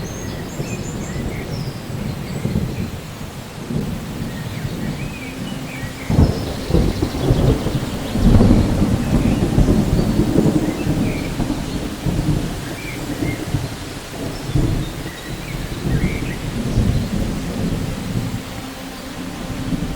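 Thunderstorm: steady rain with low rolling thunder. About six seconds in the rumble swells suddenly, peaks, then rolls on and slowly eases.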